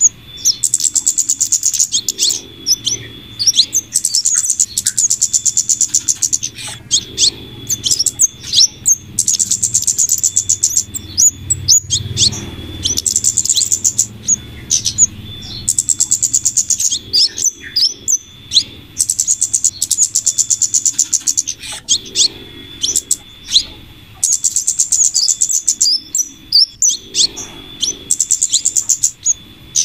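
Bird-lure recording of flowerpecker (kemade) calls mixed with female scarlet minivet calls: rapid, very high-pitched trains of ticks lasting about two seconds, repeating every few seconds, with scattered sharp chips in between. A faint low hum runs underneath.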